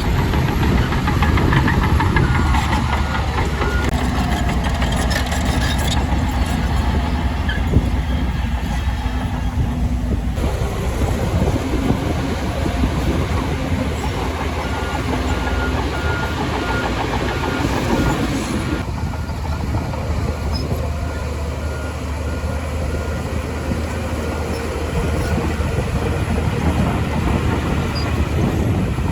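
Shantui DH17C2 crawler bulldozer's diesel engine running under load, with its steel tracks clanking and rattling as it moves. A repeated beeping tone sounds at times.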